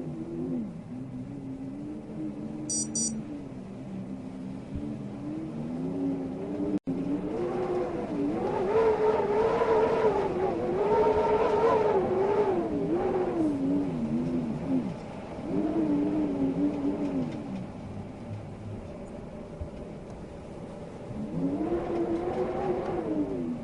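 Wind howling in gusts, a moaning, whistling tone that swells and fades in slow waves, rising and falling in pitch, loudest in the middle.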